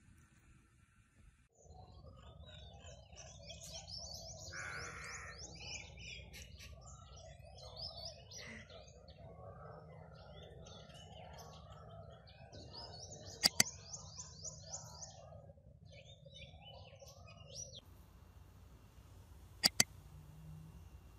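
Small birds chirping and twittering in many quick, repeated notes, with two sharp clicks, one about midway and one near the end.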